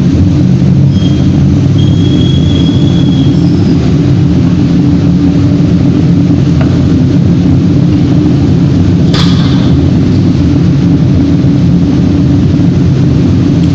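Loud, steady low rumble of heavy industrial machinery in a reverberatory furnace plant, with a faint high whistle in the first few seconds and a single sharp knock about nine seconds in.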